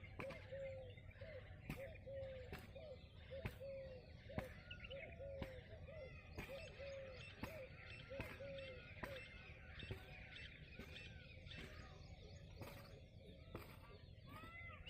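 Faint birds calling: a low arching call repeated over and over, then higher chirps in a quick series near the end, with occasional sharp clicks.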